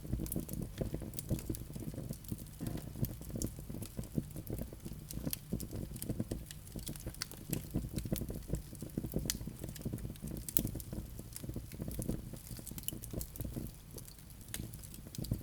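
Wood fire crackling: frequent, irregular sharp snaps and pops over a steady low rumble of the burning logs.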